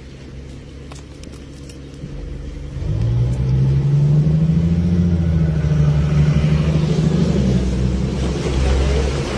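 A heavy vehicle engine running with a low drone, growing much louder about three seconds in as it comes close or is driven harder.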